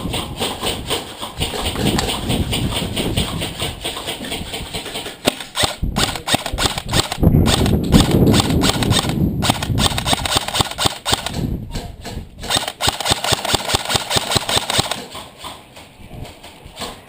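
Airsoft guns firing on full auto, a rapid clattering in bursts with short breaks, loudest about halfway through and thinning out near the end.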